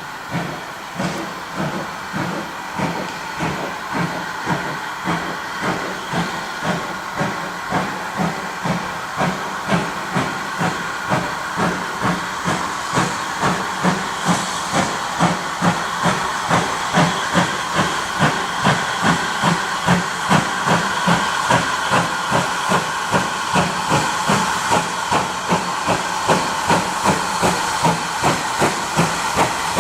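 GWR 5600 class 0-6-2T steam locomotive 6695 getting a train under way: steady hissing steam with exhaust beats that quicken from about one a second to about two a second as it gathers speed, growing gradually louder.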